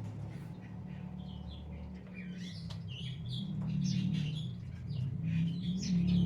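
Birds chirping in short repeated calls over a steady low hum.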